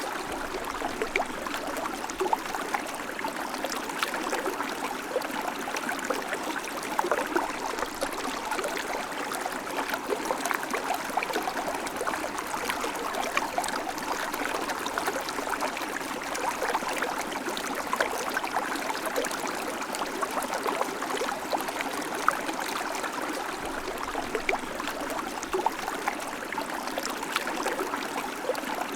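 River water flowing steadily over rocks, a continuous rush dotted with small splashes and gurgles.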